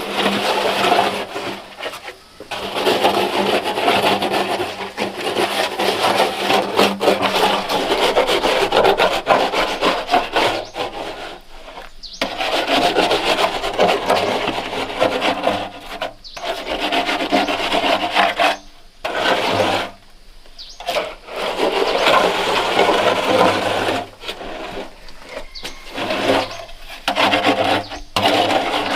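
Rough scraping, a tool rubbed hard over a coarse surface, in long stretches broken by a few short pauses.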